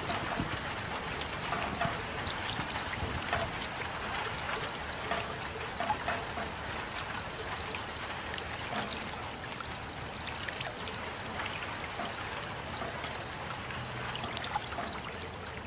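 Steady rain with many individual drops ticking close by and water trickling.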